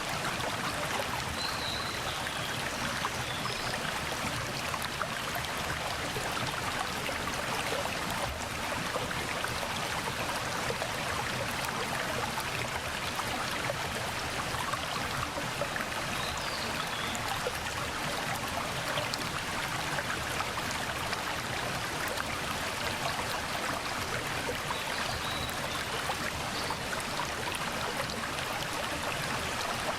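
Mountain valley stream rushing steadily over rocks, an even unbroken water sound. A few faint, short bird chirps come through a couple of times.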